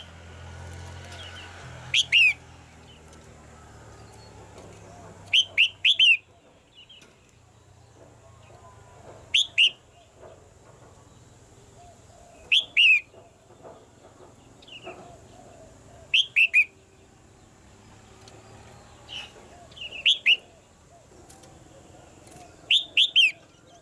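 Red-whiskered bulbul song: short phrases of two to four quick, bright notes, repeated about every three to four seconds.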